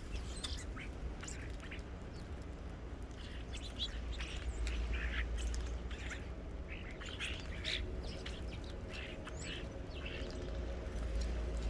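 Small birds at a feeder calling: many short, irregular chirps and harsher squawky notes, over a low steady rumble.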